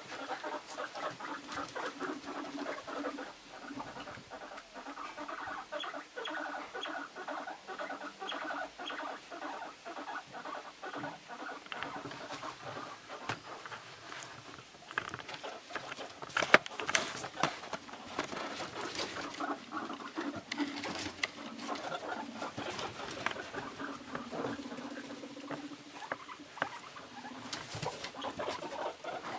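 Guinea pigs vocalising with a rapidly pulsing, purring rumble, on and off throughout, with scattered clicks and knocks of movement loudest about halfway through.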